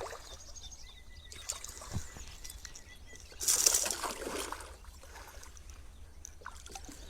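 Water lapping and sloshing around a kayak, with a few small knocks and one short splash-like rush of noise about halfway through.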